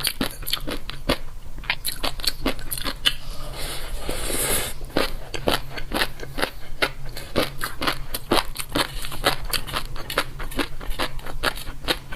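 Close-miked chewing of crunchy food: a dense run of rapid crisp crunches, with a short breathy hiss about four seconds in.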